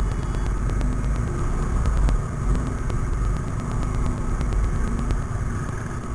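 Motorcycle running along the road with a steady low rumble, with road traffic around it.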